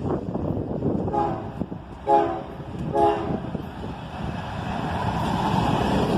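Horn salute from a BNSF ES44DC locomotive horn: three short blasts about a second apart, the second and third louder. After them the rumble of the approaching train builds, with wind on the microphone.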